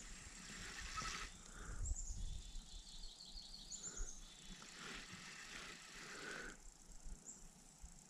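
A small bird chirping: a few short falling notes and one quick trill of about eight notes, over a faint steady outdoor hiss.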